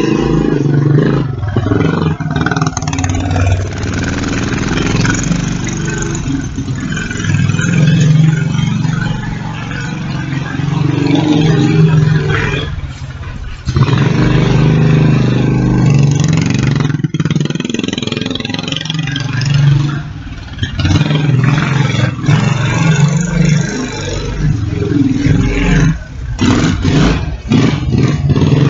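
Kawasaki Bayou 300 quad bike's single-cylinder four-stroke engine running under varying throttle, its pitch rising and falling, with brief let-offs about halfway through and again near the end.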